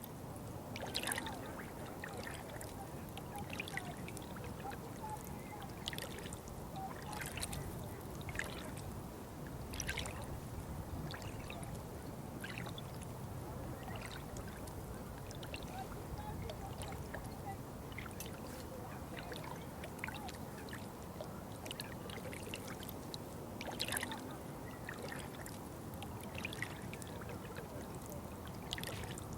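Running water trickling and pouring steadily, with irregular small splashes and drips scattered through it.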